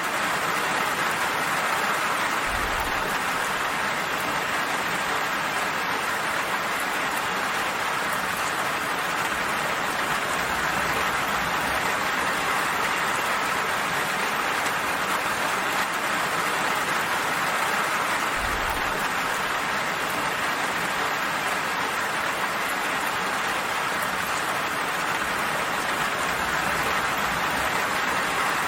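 Steady rain falling, an even hiss of many drops without let-up.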